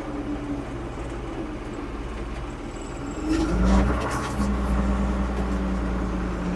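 1975 Ford 550 backhoe's diesel engine running steadily. About three and a half seconds in it speeds up, as if coming under load, with a short burst of clatter, then holds at the higher pitch.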